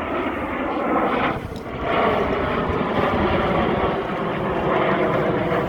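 BAE Hawk T1 jets of the Red Arrows flying past, a loud continuous jet engine noise with a brief dip about a second and a half in.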